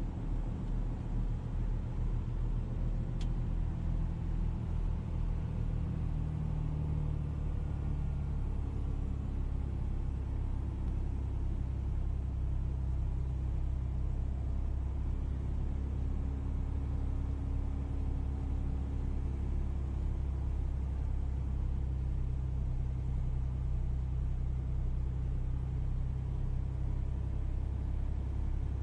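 A motor vehicle's engine runs with a steady low rumble. It pulses for the first few seconds, then evens out.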